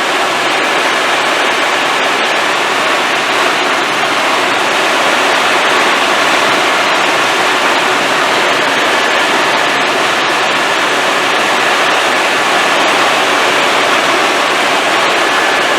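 Helicopter in flight heard from inside the cabin: a loud, steady rush of engine and rotor noise with a faint high whine.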